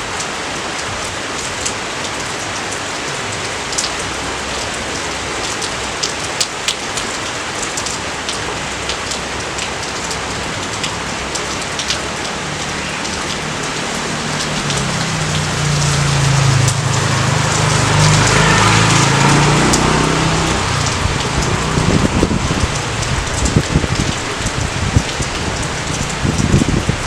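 Steady rain falling, with individual drops ticking through it. About halfway through, a low rumble of thunder swells for several seconds and then fades back into the rain.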